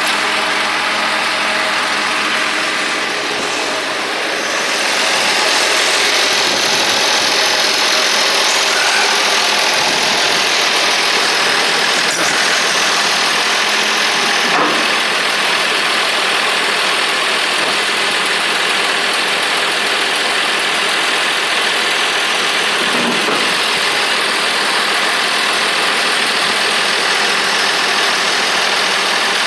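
1976 International 1086 tractor's diesel engine running steadily, at idle or low speed, and getting somewhat louder about five seconds in.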